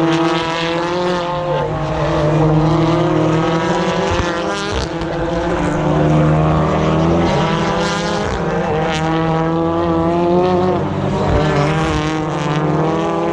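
A train of BTCC touring cars' turbocharged two-litre four-cylinder engines running hard at high revs past the track, several engine notes overlapping and sliding up and down in pitch, with a few sharp cracks along the way.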